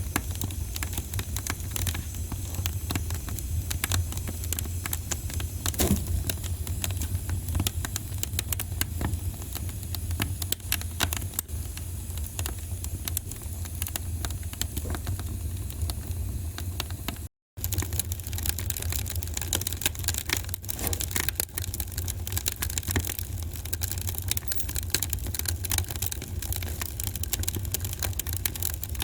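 Wood fire crackling in a fireplace: dense, irregular sharp pops and snaps over a steady low rumble. The sound cuts out for a split second about 17 seconds in.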